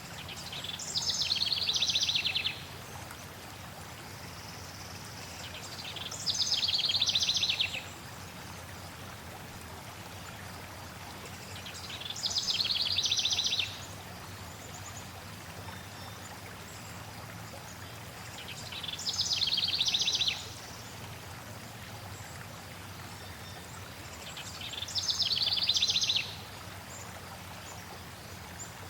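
A songbird sings the same short, rapid trilled phrase five times, about every six seconds; each phrase grows louder and ends abruptly. Beneath it runs a steady hiss of flowing water.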